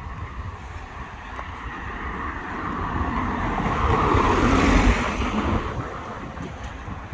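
A car passing by on the road, its tyre and engine noise swelling to a peak about four and a half seconds in and then fading away.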